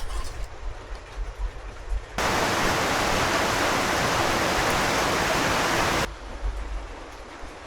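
Steady rush of running water that starts suddenly about two seconds in and cuts off about four seconds later.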